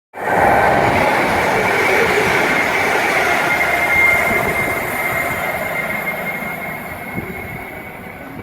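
A train passing through a station on the main line, loud at first and fading away over the last few seconds, with a high steady ringing tone from the wheels and rails throughout.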